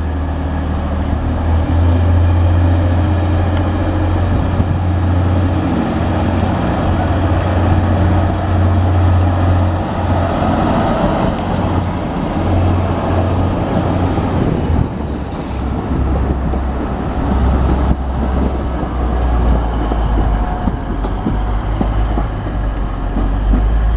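Class 185 diesel multiple unit pulling away under power, its diesel engines giving a loud, steady low drone that drops in pitch about two-thirds of the way through, with a faint high squeal from the wheels.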